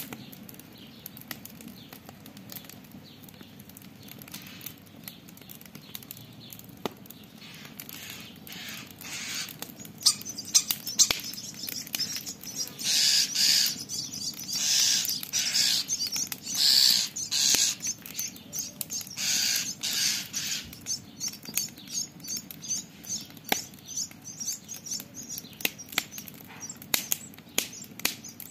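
Campfire crackling with frequent sharp pops. From about twelve to twenty seconds in, a common starling scolds over it with a run of short noisy calls, each about half a second long.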